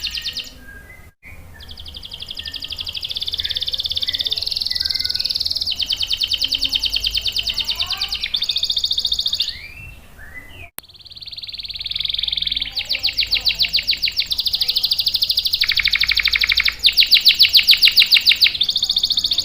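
Domestic canary singing long, rapid rolling trills of quickly repeated high notes, phrase after phrase. The song drops out briefly about a second in and again around ten seconds in, then resumes.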